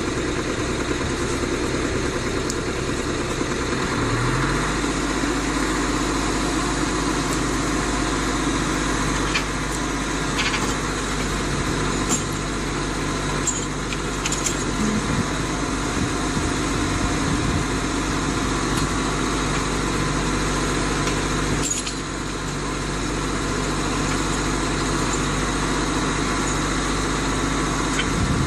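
A heavy machine's engine running steadily. About four seconds in its pitch steps up with a short rise, and there is a brief dip about three-quarters of the way through.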